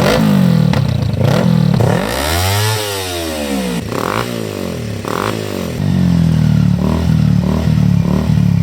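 A Kawasaki ZX25R's 250 cc inline-four being revved through an aftermarket slip-on exhaust with a GP-style end can. A few quick revs come first, then one long rev that rises and falls about two to three seconds in, two short blips, and rapid repeated blips near the end.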